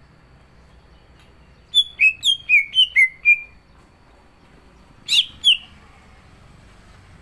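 Green leafbird (cucak ijo) singing: a quick run of about seven sharp, falling whistled notes, then two more notes a couple of seconds later.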